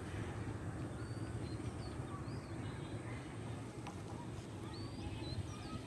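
Outdoor ambience: birds giving a few short, scattered chirps over a steady low rumble.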